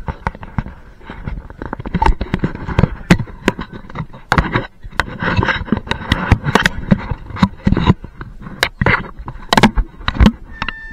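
Historic railway carriage in motion: wheels and car body clattering and rattling, with many sharp, irregular knocks over a rushing noise.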